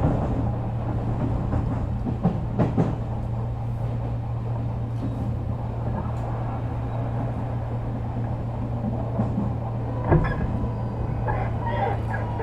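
Inside an Odakyu 3000-series electric train car: a steady low hum from the train, with a few knocks in the first three seconds and a thud about ten seconds in.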